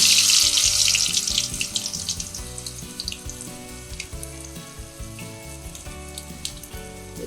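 Urad dal vada batter deep-frying in hot oil: a loud sizzle that dies down over about two seconds into scattered popping and crackling.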